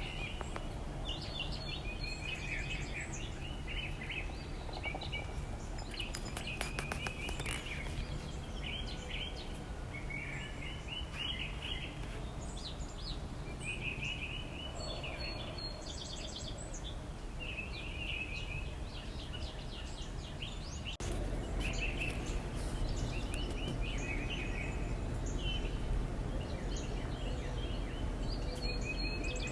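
Backyard songbirds chirping and singing in short, repeated phrases throughout, several calls overlapping. Underneath runs a steady low background rumble, which gets louder about two-thirds of the way through.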